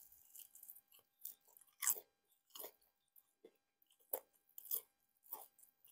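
A person biting into and chewing crispy-coated Korean fried chicken: a series of about eight separate crunches, the loudest about two seconds in.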